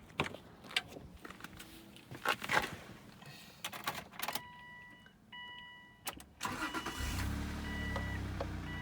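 Clicks and knocks of a key and door handling, then a dashboard warning chime beeping steadily; about six and a half seconds in, the 2003 Subaru Outback H6-3.0's flat-six engine cranks, catches and settles into a steady idle while the chime keeps beeping.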